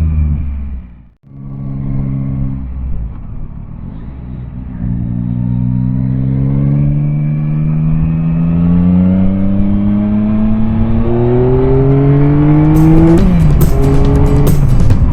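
Yamaha Tracer 9's 890 cc three-cylinder engine under load, its pitch rising steadily for several seconds as the bike accelerates, then dropping sharply with an upshift near the end. The sound cuts out briefly about a second in. Music with a drum beat comes in over the engine in the last couple of seconds.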